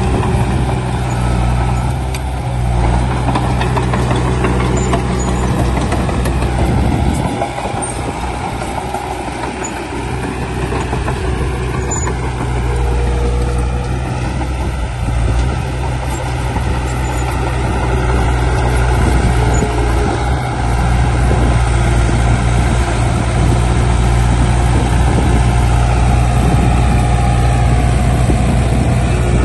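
Heavy diesel construction machinery running with a steady low engine drone. It eases off a little around seven seconds in and builds back up over the following seconds.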